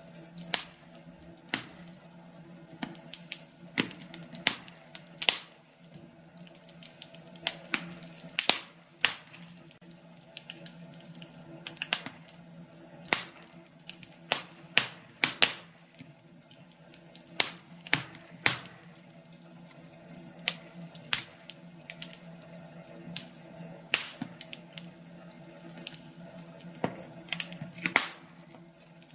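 Wood fire burning in a fireplace, crackling with irregular sharp pops and snaps from the firewood, several a second at times, over a faint steady low hum.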